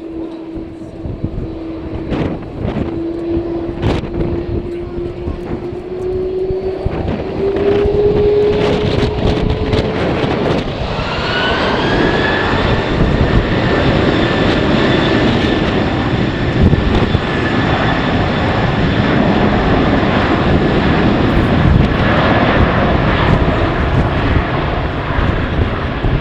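Jet airliner's engines spooling up: a whine that climbs slowly in pitch, then a loud steady engine noise with a high whine that rises and settles about 12 seconds in, typical of engines run up to takeoff thrust. Wind gusts on the microphone in the first few seconds.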